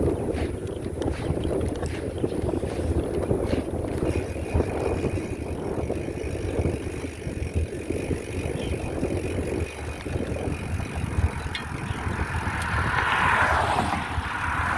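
Wind buffeting the microphone with a steady low rumble while riding a bicycle. A louder hissing swell rises and fades near the end.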